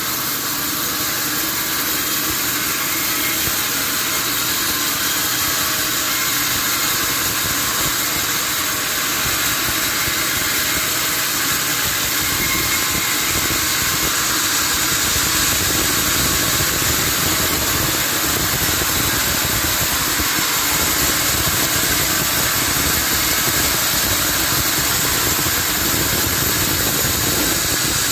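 Sawmill machinery running steadily: a constant mechanical engine-like drone with a dense high hiss that holds unchanged throughout.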